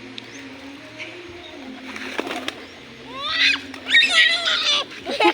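Domestic pigeons cooing softly, then a young child's loud high-pitched squeals rising and falling in the last two seconds.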